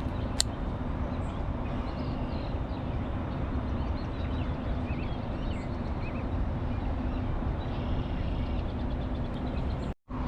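Steady low outdoor rumble with faint high chirps over it and a single sharp click about half a second in; the sound drops out briefly near the end.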